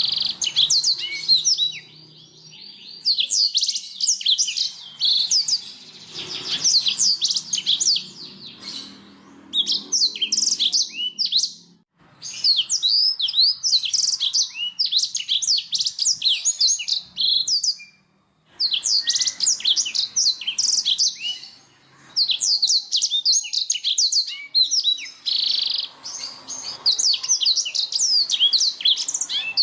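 Domestic canary singing: long runs of fast, high trills and chirps, broken by short pauses about twelve and eighteen seconds in.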